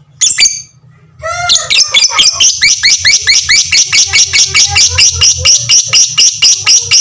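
A lovebird singing its 'ngekek' chatter: one short call, then from about a second in a long unbroken run of sharp, rapid notes, about six a second. This is the long ngekek prized in lovebird song contests.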